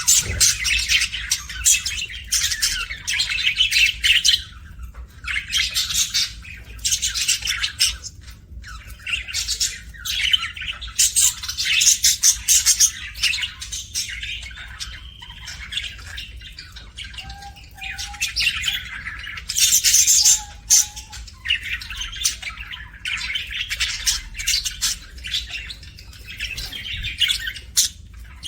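Budgerigars chattering and chirping in quick, scratchy bursts, with squawks among them. Contented budgie chatter.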